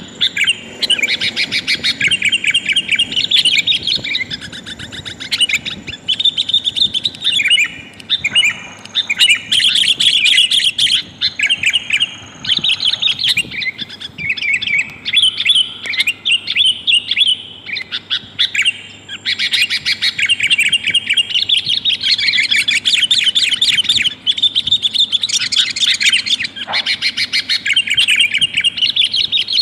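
Sooty-headed bulbul calling in rapid, almost unbroken chattering phrases. It is a female's call, used as a lure to draw wild males in.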